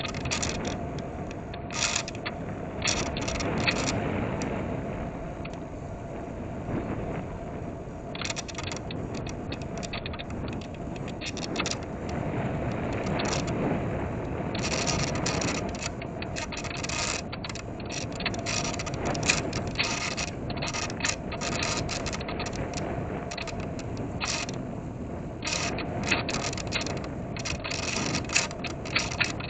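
In-flight audio recorded on board a sub-100 g electric RC plane: its small brushless motor (RCX NK1103, 10000KV) and 3-inch propeller running steadily with a constant tone. Frequent clicking and rattling bursts come and go throughout, heaviest in the middle and near the end.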